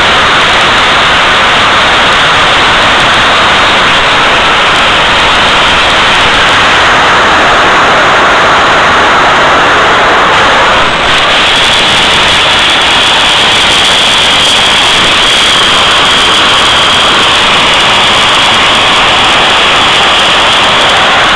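Home-built jet engine of about 200 lb thrust running: a loud, even rush of noise, with a high steady whine coming in about halfway through.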